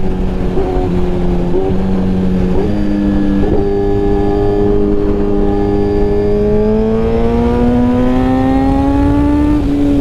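Suzuki GSX-R1000R inline-four running through a Brocks full exhaust system while riding, its note broken by a few short dips in the first few seconds, then climbing slowly and easing off near the end. A steady rush of wind on the microphone underneath.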